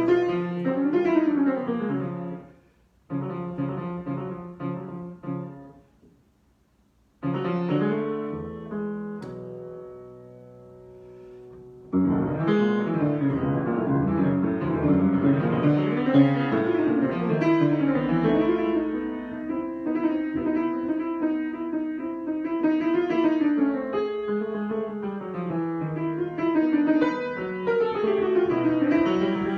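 Solo piano improvisation: short phrases broken by two brief pauses, a held chord dying away, then continuous flowing playing through the rest.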